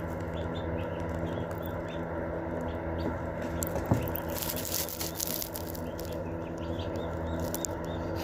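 Young chickens peeping softly and pecking at a phone, giving scattered taps, the sharpest about four seconds in, over a steady low hum.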